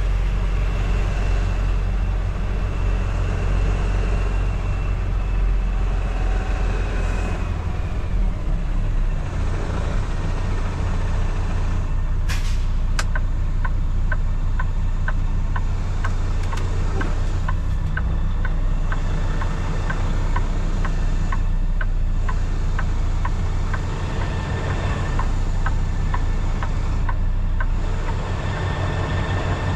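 Kenworth T680 semi truck's diesel engine running steadily at low speed while manoeuvring. About twelve seconds in there are two sharp clicks, followed by a regular short ticking about twice a second that lasts some fifteen seconds.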